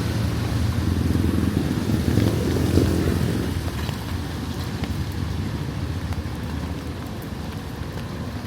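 Street traffic: a motor vehicle's engine rumble passing close, loudest about three seconds in and then fading away, over steady street noise.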